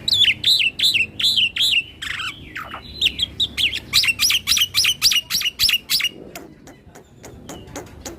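Black-winged myna (jalak putih) singing a fast run of sharp, repeated whistled notes, about five a second, with a short break about two seconds in. It gives way to drier clicking notes near the end.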